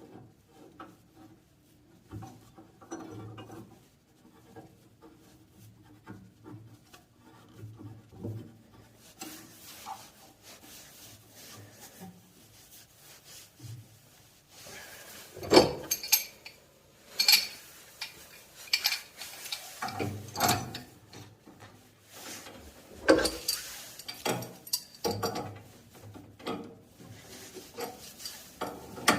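A brass ball valve and pipe fittings being handled and fitted together by hand: scattered rubbing and scraping of metal, with sharper metal clinks and knocks in the second half.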